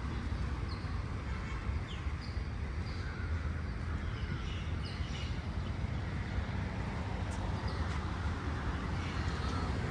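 Birds chirping in short, scattered calls over a steady low rumble of distant city traffic.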